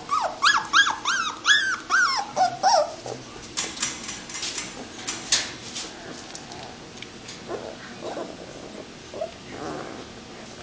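Young puppies whining and squealing: a quick run of short, high-pitched cries, each rising and falling, over the first three seconds. A few sharp clicks follow, and faint whimpers come again near the end.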